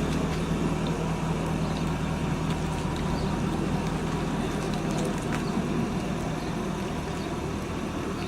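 A car engine running steadily at a constant low pitch, with no revving, over a general outdoor background.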